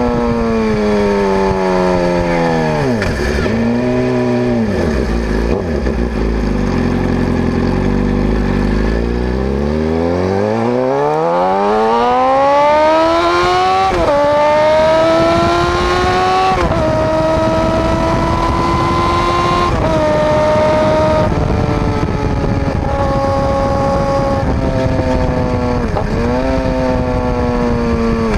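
2011 Suzuki GSX-R750's inline-four running through an unbaffled M4 GP slip-on exhaust. The engine note slows, then accelerates hard up through several gears, dropping in pitch at each shift, and later eases off with a few brief blips.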